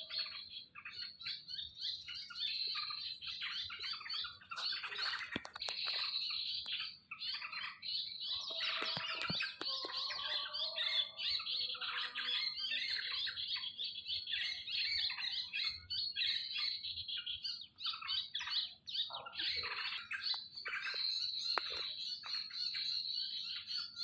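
Small birds chirping and calling rapidly and continuously, high-pitched, with a few lower calls about ten seconds in.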